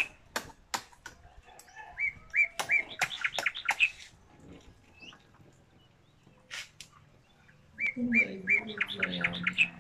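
A small bird chirping in quick runs of short repeated notes, one run a couple of seconds in and another near the end. Scattered sharp clicks come between them as a spiny sea urchin shell is cracked and picked open by hand.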